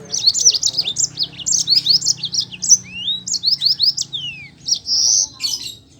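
Yellow-fronted canary (Mozambique canary) singing a fast rolling song of rapid, high, falling notes, with a few longer sweeping notes in the middle and a held buzzy note near the end.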